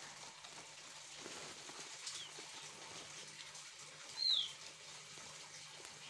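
Small caged songbirds moving and fluttering about, with a faint short chirp about two seconds in and a louder, short downward-sliding chirp about four seconds in.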